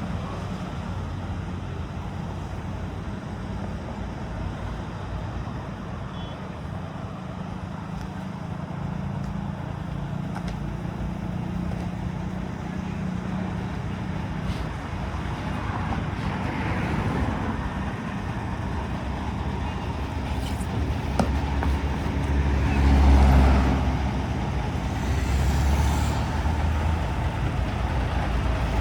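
Street traffic: a motor vehicle engine running with a steady low hum while other vehicles pass, the loudest pass about three-quarters of the way through.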